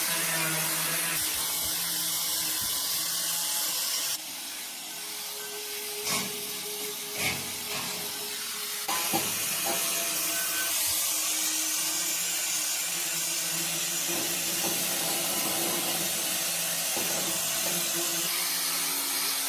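Steady hissing machine noise, like a power tool or blower running, with a faint steady hum. About four seconds in it drops away for roughly five seconds, with a few sharp knocks, then comes back.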